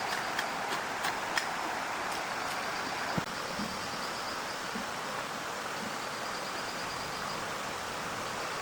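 Heavy rain falling steadily, with a few sharp ticks in the first second or so and once more about three seconds in.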